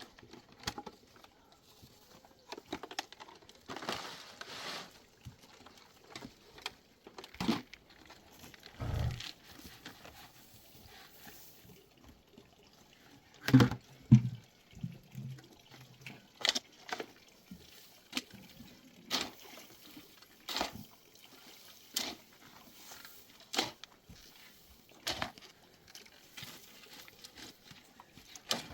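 Irregular wet slaps and knocks of mud and stones being worked by hand into a wall, with two heavier thuds about halfway through.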